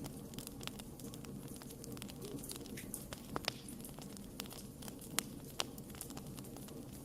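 Wood fire burning with irregular sharp crackles and pops over a steady low rumble of flames, a few louder pops about three and a half and five seconds in.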